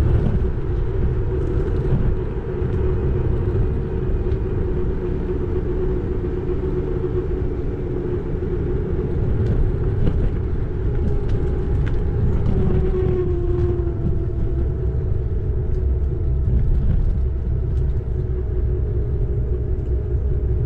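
Xiaomi Electric Scooter 4 Pro riding along: a steady whine from its electric motor over a low rumble of wind and tyres on the road. A second, higher whine slowly falls in pitch over the second half.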